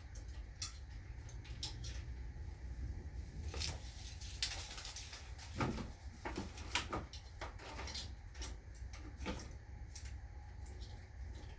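Scattered clicks, light knocks and scraping from objects being handled, busiest in the middle, over a steady low hum.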